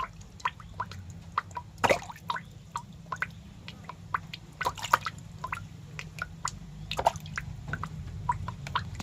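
Irregular wet clicks and drips, several a second with a few louder ones, over a low steady hum.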